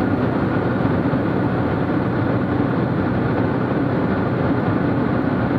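Steady drone of a Cessna T210's turbocharged six-cylinder engine and propeller in cruise, heard inside the cabin, with a faint steady hum in it.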